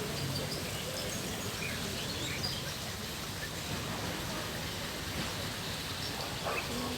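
Steady rushing background noise with many short, scattered bird chirps from the park's aviary birds.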